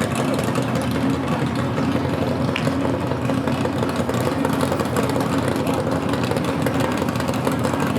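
Car engine running at a steady idle, with no revving.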